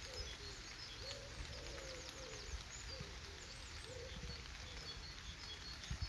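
Birds calling outdoors: a busy run of short, low, arching calls, several overlapping, with thin high chirps of small birds above them and a low rumble underneath.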